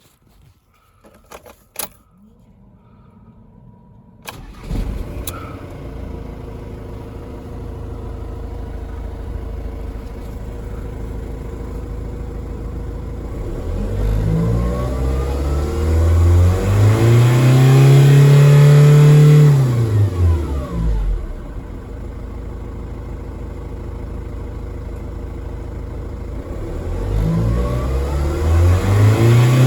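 Ford Transit 2.0 TDdi turbo-diesel engine starting after a few clicks about four seconds in, then idling. It is revved up twice: the pitch rises, holds high for a few seconds and falls back to idle, then rises again near the end.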